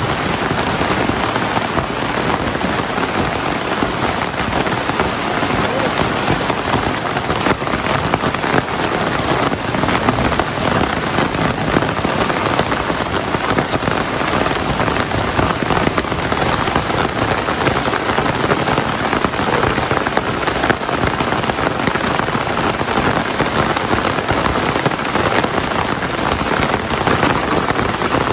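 Heavy rain falling steadily, a dense, unbroken patter of drops hitting surfaces.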